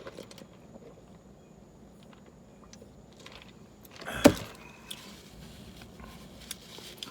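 Faint scattered clicks and handling noises, with one short vocal sound from a man, a grunt or exhale, about four seconds in.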